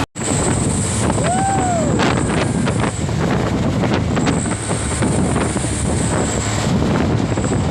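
Truck running with loud, steady noise and wind buffeting the microphone. About a second and a half in, a short tone rises and falls in pitch.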